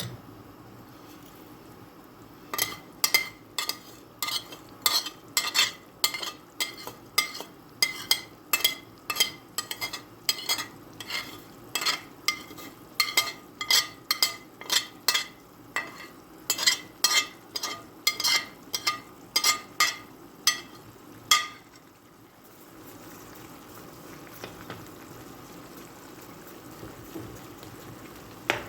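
Metal utensil clanking against a pan, about two ringing clanks a second, as frying pasta and vegetables are stirred over a steady sizzle. The clanks stop a little over twenty seconds in, leaving only the sizzle.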